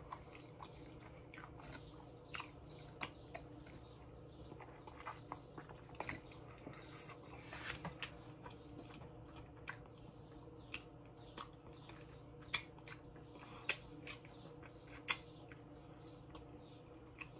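Close-up mouth sounds of someone eating baby back ribs: chewing with irregular wet clicks and lip smacks, two sharper smacks standing out past the middle, over a faint steady hum.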